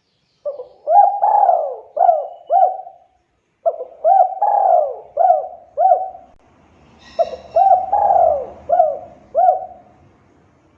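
Spotted dove (tekukur) cooing: the same phrase of about five rolling coos, given three times with short pauses between. A short faint higher sound and a low rumble come in just before the third phrase.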